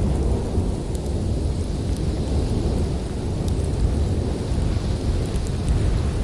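Steady, deep rumble of storm wind, with scattered sharp crackles and pops from a wood fire.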